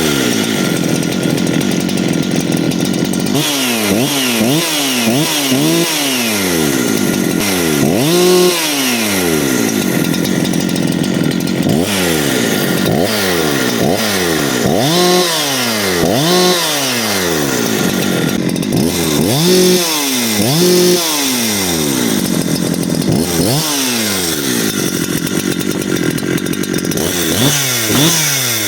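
Husqvarna 372XP clone two-stroke chainsaw being revved again and again. The throttle is blipped so the engine pitch rises sharply, then it falls back toward idle, roughly every one to two seconds.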